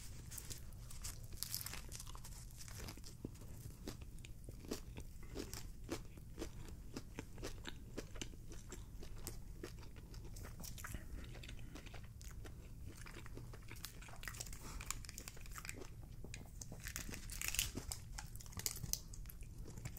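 Close-miked chewing of a bitten Wendy's Crispy Chicken BLT: the crispy breaded chicken gives a steady run of small crunches and wet mouth clicks. Near the end, a brief rustle as the lid is peeled off a dipping-sauce cup.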